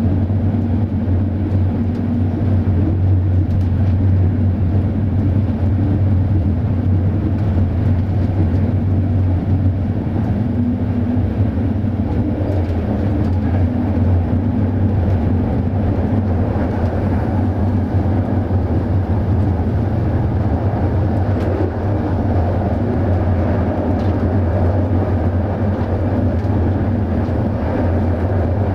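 Passenger railway coach running at speed, heard from inside the carriage: a steady low rumble and hum of wheels on the rails that holds even throughout.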